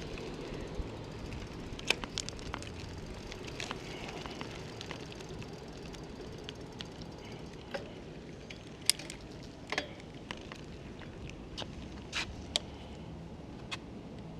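REI Co-op CTY 1.1 bicycle being ridden: steady rolling and wind noise, with irregular sharp clicks and ticks scattered throughout.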